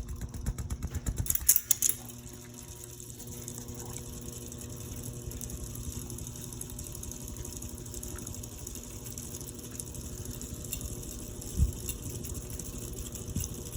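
Westinghouse Xavier ceiling fan running: a fast, even clatter for about the first two seconds, then a steady motor hum. A single short thump near the end.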